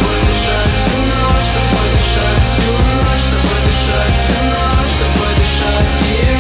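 Rock music without vocals: a band passage with bass, guitars and a steady drum-kit beat.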